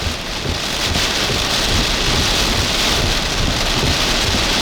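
Heavy wind-driven rain from a tropical storm band, a steady dense hiss, with a low uneven rumble of wind buffeting the microphone.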